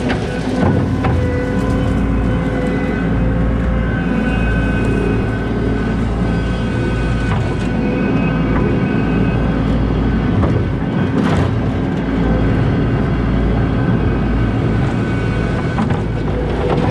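Skid steer loader's diesel engine running steadily under load, with a steady whine above the rumble. A few sharp clanks break through, about one, seven and eleven seconds in.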